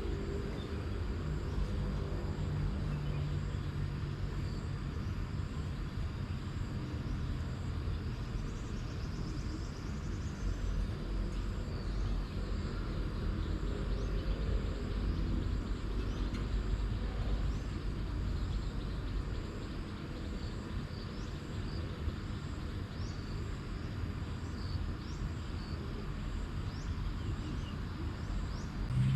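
Steady outdoor ambience: a continuous low rumble with a hiss over it, and faint high insect-like trilling and a few faint chirps in the later part.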